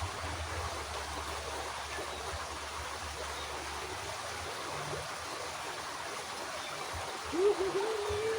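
Water running steadily in a small irrigation ditch, an even rushing hiss. A short voiced sound rises and holds near the end.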